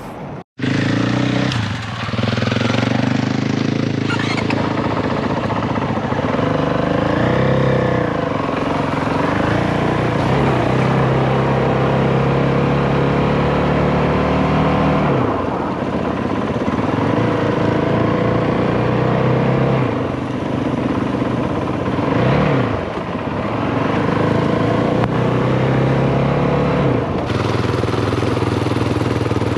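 Single-cylinder dual-sport motorcycle engine running at road speed, its pitch dipping and climbing back a few times, with wind rush over the microphone. A brief cut to silence just after the start separates it from the music before it.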